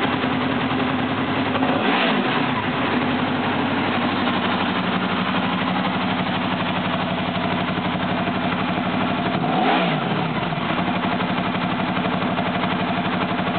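Honda VFR800 V4 engine idling through an R-style one-off exhaust with an RSTC silencer, blipped twice, about two seconds in and again near ten seconds: the pitch rises briefly and falls back to a steady idle each time.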